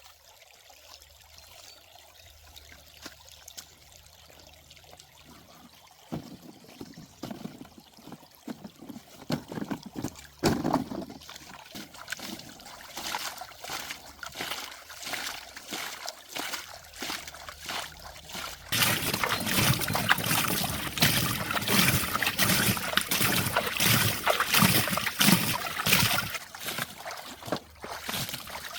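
Water trickling and splashing, irregular at first and then louder and denser from about two-thirds of the way through.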